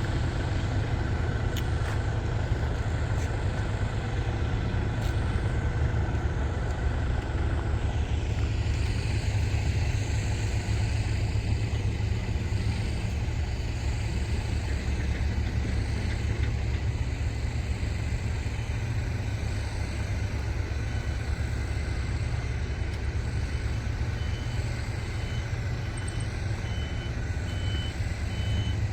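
Diesel engine of a rice combine harvester running steadily with a heavy low rumble. Near the end a high-pitched warning beep starts repeating at an even pace.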